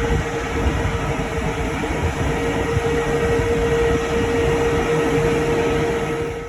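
Jet airliner engines running, a steady loud rumble with a held whine, cut off abruptly at the end.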